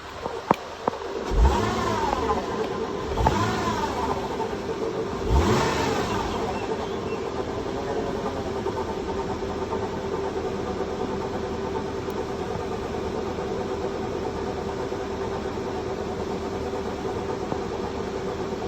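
Car engine revved briefly three times, then running steadily at idle with a constant humming tone. The owner says this car has started making a new noise.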